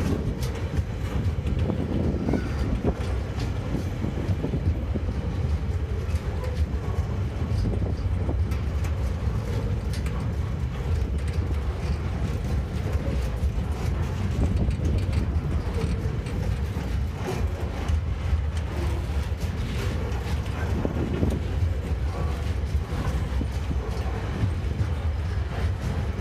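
Loaded container wagons of a freight train rolling past: a steady low rumble of steel wheels on the rails, with frequent clicks and clatter from the wheels and couplings.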